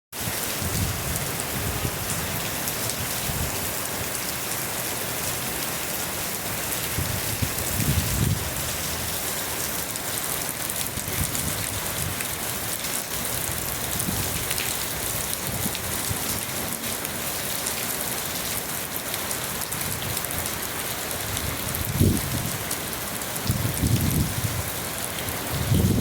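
Summer rain falling steadily, a dense even hiss, with a few brief low rumbles about eight seconds in and several more near the end.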